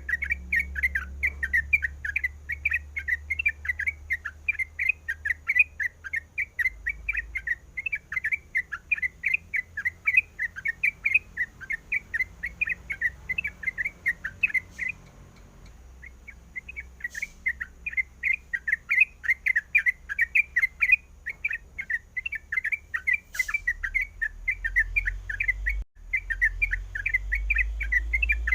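Yellow-vented bulbul (trucukan) chattering: a fast run of short notes, about four or five a second, that breaks off for about a second near the middle and then carries on.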